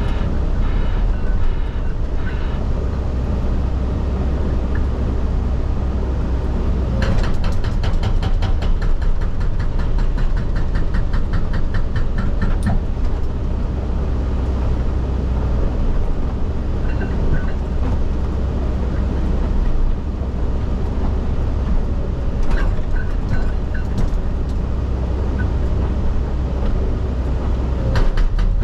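Excavator diesel engine running steadily under load, heard from the operator's cab. About seven seconds in, its hydraulic rock breaker hammers in a fast, even series of blows for roughly five seconds, and a few single knocks follow later.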